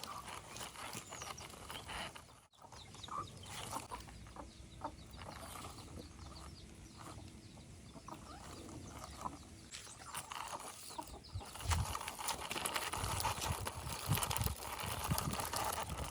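Short animal calls over a busy outdoor background of scattered knocks, cut off by a brief dropout about two and a half seconds in.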